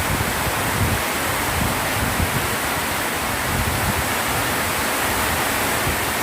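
Heavy rain pouring down in a steady, loud hiss, with gusts of wind buffeting the microphone.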